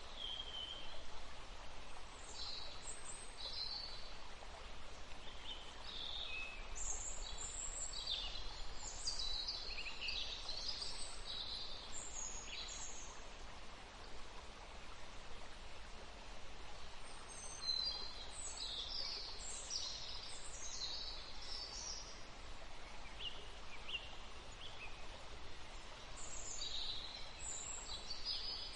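Several small songbirds chirping and trilling in short high-pitched phrases, busiest in bursts a third and two thirds of the way through and near the end, over a steady background hiss of forest ambience.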